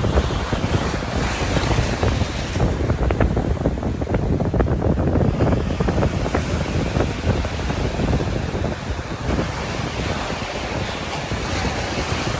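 Strong wind buffeting the microphone with a low rumble, over surf breaking on the beach.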